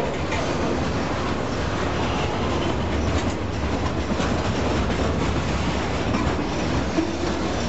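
Freight cars (covered hoppers and boxcars) of a long freight train rolling past close by: a steady rumble of steel wheels on the rails with no locomotive engine in it.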